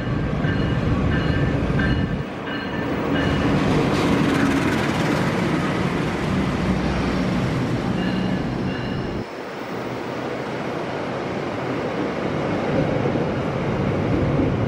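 Trains running past close by on station tracks, a steady loud rumble of wheels on rails, in shots cut together so the sound changes abruptly about two seconds in and again about nine seconds in. A quick repeated high beeping sounds over the first two seconds.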